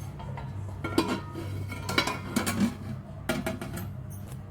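A spoon clinking and scraping against dishes as rice pulao is served, with a few separate knocks about a second apart over a steady low hum.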